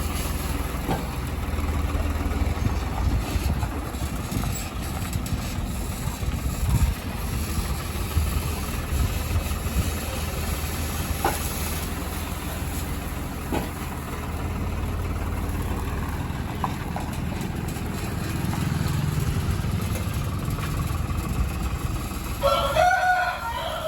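A heavy diesel engine running steadily. A rooster crows once near the end.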